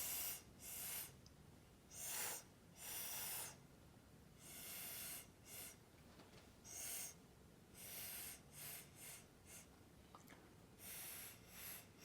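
Short, forceful puffs of breath blown from the mouth to push wet acrylic paint across a canvas in a Dutch pour: about a dozen airy blows, each under a second, some coming in quick runs.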